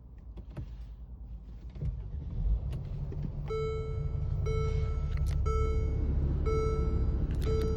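2016 Mercedes-Benz GL's engine cranking and starting about two seconds in, then settling into a steady idle. From about halfway through, the car's warning chime beeps once a second over the idle, with a few clicks early on.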